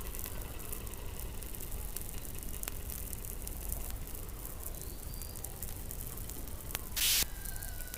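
Underwater sound from a hydrophone beneath the Antarctic ice: a steady low rumble and hiss scattered with sharp clicks and crackles, and faint thin whistling tones. About seven seconds in, a loud, short burst of noise stands out above the rest.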